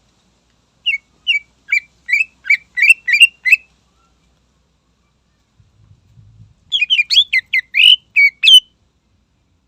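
A cucak ijo (greater green leafbird) singing two bursts of sharp, loud chirping notes. The first burst is a run of about eight notes that quicken, and the second, a few seconds later, is a faster, denser phrase.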